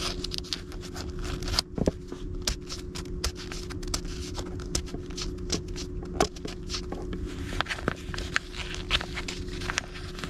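Handling noise: scattered small clicks, scrapes and rustles, like paper cards being moved and handled, over a steady low hum.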